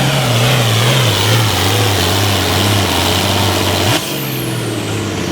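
Turbocharged pulling tractor's engine running hard under load, with a high turbo whine and the engine pitch sagging as it lugs down. About four seconds in, the power is cut abruptly and the sound drops, with a falling whine as the turbo winds down.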